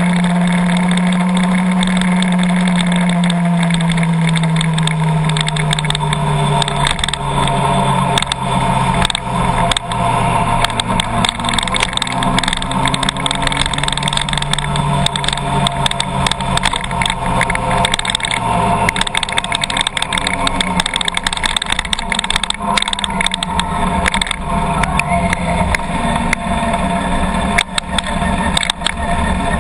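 Car engine running, its pitch falling over the first six or seven seconds as the car slows, then running on at lower revs. Many sharp taps and clicks come in throughout.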